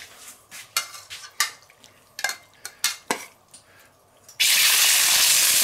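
A metal spatula clinks and scrapes against a bowl and a wok several times. About four seconds in, a sudden loud, steady sizzle sets in as raw chicken pieces hit the hot oil in the wok, a sign that the wok is hot enough.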